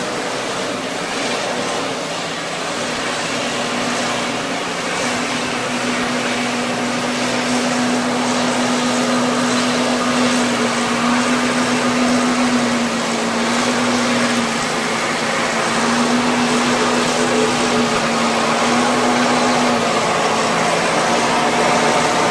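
A steady rushing noise with a low, steady hum running through it. The hum drops out briefly a few times in the second half.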